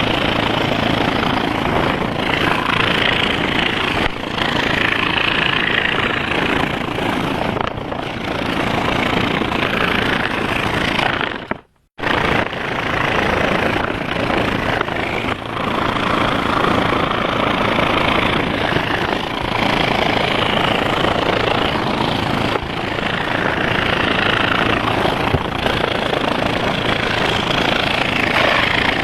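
Electric scroll saw running steadily, its blade reciprocating as it cuts wood. The sound cuts out sharply for a moment about twelve seconds in, then carries on.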